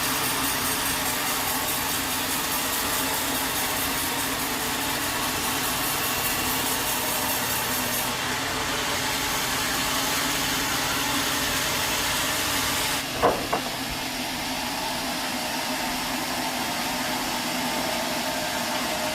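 Sawmill machinery running steadily, a dense mechanical noise with a faint hum. The sound changes about 8 and 13 seconds in, and a short sharp pitched sound at about 13 seconds is the loudest moment.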